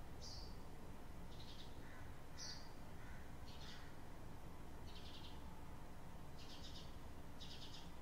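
Small birds chirping: about seven short, high chirps spaced roughly a second apart, the later ones as quick rapid trills, over faint steady low background noise.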